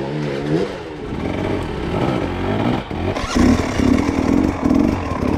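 Dirt bike engine revving up and down in repeated bursts, as the throttle is worked on a steep, rough climb. It grows louder and choppier about three seconds in.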